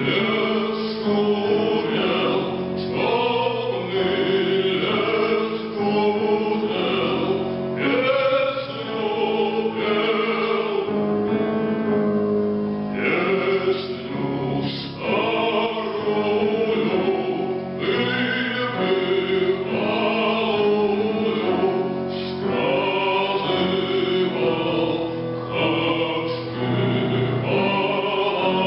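Music: a man singing a Russian song over accompaniment.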